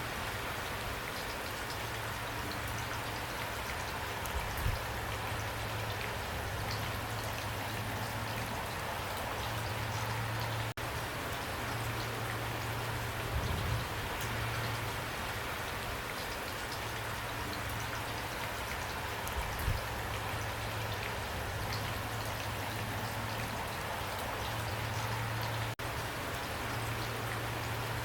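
Steady heavy rain pouring down, with many fine drops pattering and a few soft low thumps.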